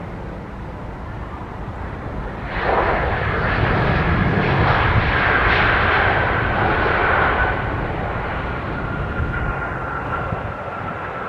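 Airliner engines passing close by. The rushing noise swells suddenly about two and a half seconds in, stays loudest for several seconds, then eases off, with a high whine that slowly drops in pitch.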